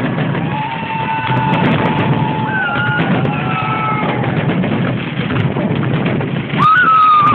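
Spectators' crowd noise with long, high whistles, several at different pitches overlapping, each held a second or two and dropping at its end; a louder, higher whistle comes in near the end.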